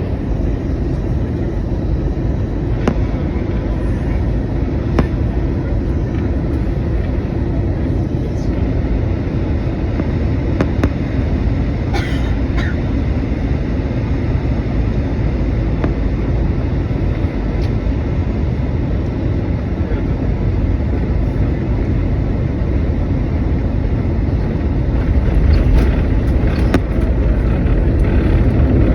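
Airbus A321 airliner landing: a steady low rumble of jet engines and airflow that grows a little louder over the last few seconds.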